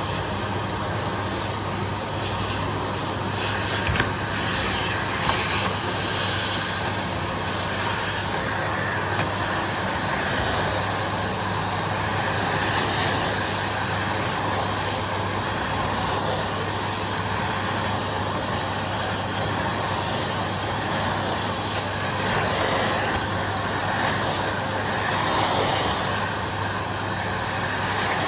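Vacuum cleaner running steadily over carpet, a constant motor drone and airflow hiss that swells and eases slightly as it moves, with a couple of small knocks about four and five seconds in.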